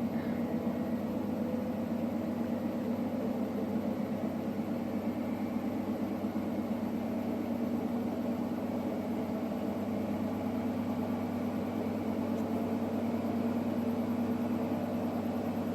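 Electrolux WD41A84160 washing machine running through its rinse-and-spin programme, a steady mechanical hum that does not change.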